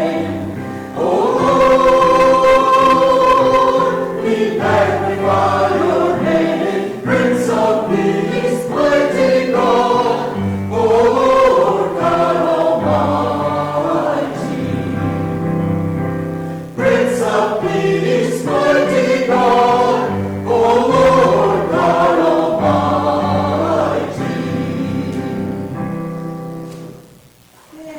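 A group of voices singing a hymn together with piano accompaniment. The music fades out near the end.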